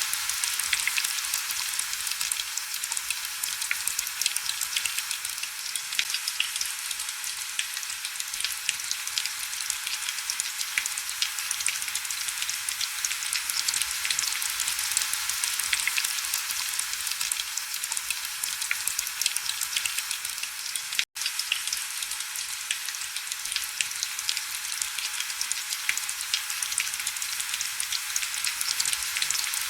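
Heavy rain: a steady hiss with a dense patter of small drops. It cuts out for an instant about two-thirds of the way through.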